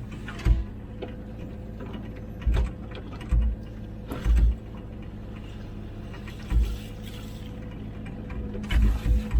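Komatsu PC16 mini excavator's diesel engine running steadily while the machine works, with a dull clunk or knock every second or two and a quick run of them near the end.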